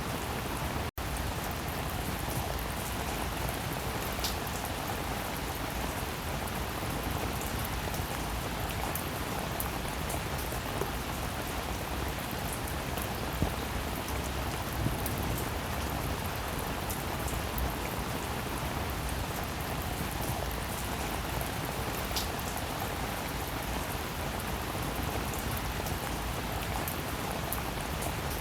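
Steady rainfall, an even hiss of many drops with a few louder single drop ticks. The sound cuts out for an instant about a second in.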